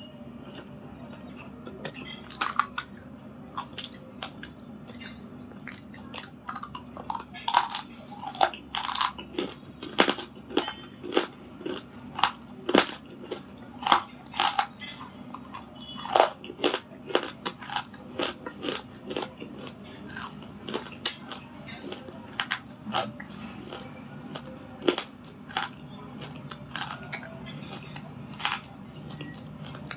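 Someone biting and chewing crunchy grey clay and a slate pencil: a run of sharp, irregular crunches, densest in the middle and thinning out towards the end, over a steady low hum.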